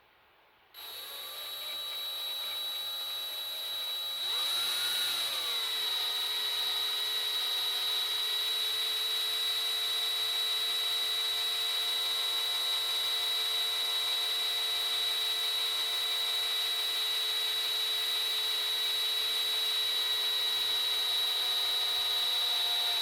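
Electric drill boring out a broken bolt in an engine block, its bit breaking through the bolt by the end. The whine starts about a second in, drops in pitch a few seconds later as the bit bites, then runs steadily until it stops at the end.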